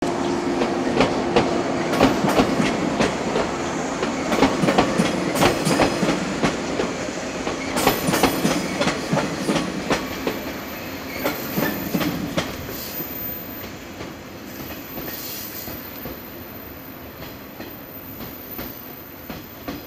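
Yellow electric multiple-unit train running through the station yard, its wheels clattering over the rail joints in quick runs of clicks. The clatter fades steadily as the train pulls away.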